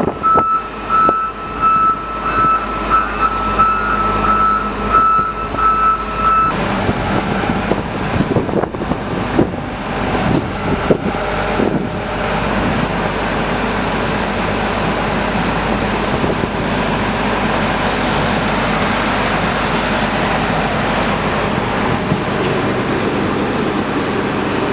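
A work vehicle's reversing alarm beeping steadily, about twice a second, for roughly the first six seconds. Then it stops, and the vehicle's engine runs steadily and loudly with machinery noise.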